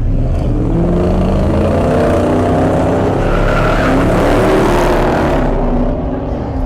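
A car engine revving hard, its pitch wavering up and down, with a hiss of spinning tyres that builds and then dies away about five and a half seconds in, typical of a burnout.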